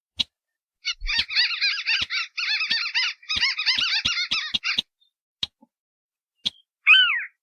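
Bird-lure recording of marsh rails, the sintar beker and the white-browed crake (tikusan alis putih), calling. A fast chattering series of notes runs for about four seconds, then comes a few sharp clicks, and a single downslurred call near the end.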